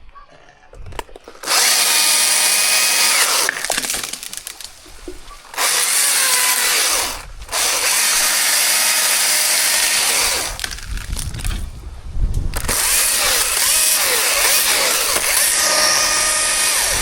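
Chainsaw revving and cutting into wood in four long stretches, dropping back between them, its engine note dipping and rising as the chain bites.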